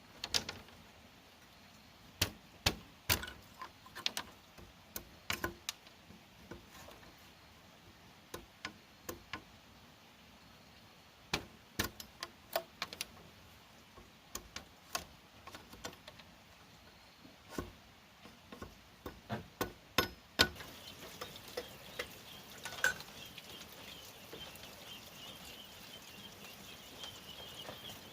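Bamboo being worked with hand tools: sharp knocks and taps at irregular intervals, some in quick runs, stopping about twenty seconds in. After that a steady high-pitched drone carries on, with a single knock.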